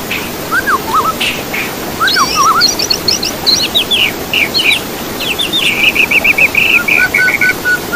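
Songbirds singing varied whistled phrases of sweeping notes, with a fast run of quick repeated notes near the end, over a steady background hiss.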